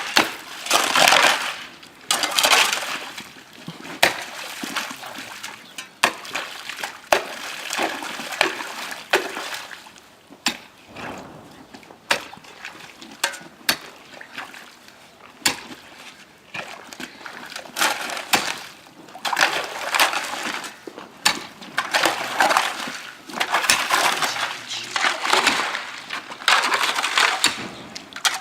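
Hand work on a damaged water pipe: irregular sharp knocks, clinks and scrapes of tools on pipe, rubble and earth, with bursts of splashing water.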